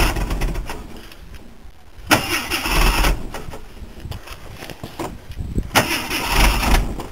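1985 Jeep Grand Wagoneer engine being cranked by its starter in three separate tries, with pauses between them: hard starting, the engine not catching.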